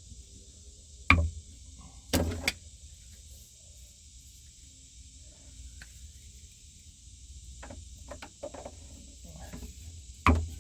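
PEX crimp tool, crimp ring and fitting being handled and worked on the pipe: a sharp clack about a second in, a quick double clack a second later, a few lighter clicks, and another clack near the end.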